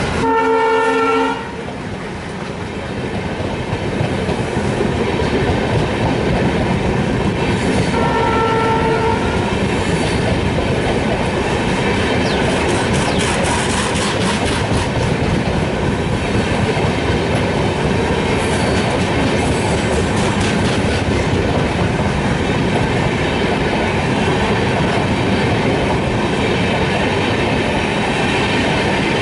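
Diesel-hauled express train's LHB coaches running past at speed, a steady rolling rumble with wheels clattering over rail joints. The diesel locomotive's horn blows at the start and again about eight seconds in.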